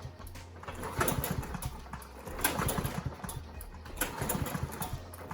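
Kohler Courage XT7 single-cylinder lawnmower engine being cranked over repeatedly, in surges about every second and a half, without catching: the freshly cleaned carburetor is not yet delivering fuel.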